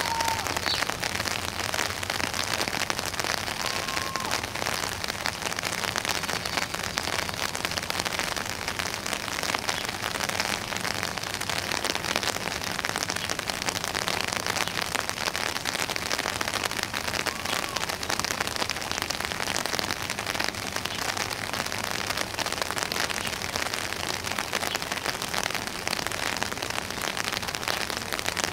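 Steady rain falling, a dense even patter. A few faint short whistles sound once or twice.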